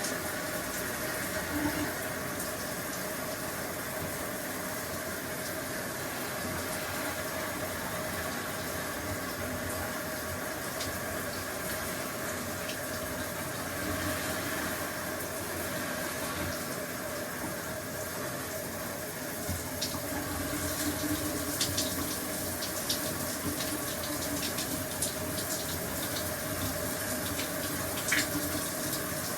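Shower running steadily, water spraying and splashing with a faint steady tone underneath. Scattered small clicks come in over the second half.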